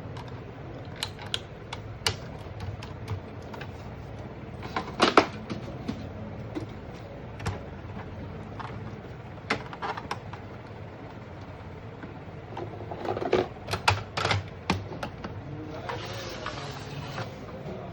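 Irregular clicks and knocks from an Epson EcoTank inkjet printer being worked on, with the loudest cluster about five seconds in and another around thirteen to fourteen seconds, and a short rushing sound near the end.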